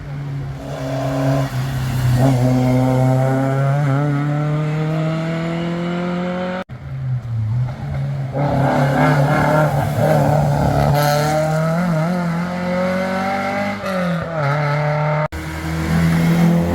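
Rally car engines revving hard and accelerating, in three short clips cut together. In the first the pitch climbs steadily. In the second it wavers up and down with the throttle, with a brief tyre squeal.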